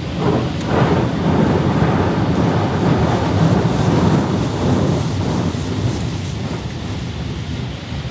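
Automatic car wash machinery working over the car, heard from inside the cabin: a loud, dense rumbling wash of noise that swells about a second in and eases after about five seconds.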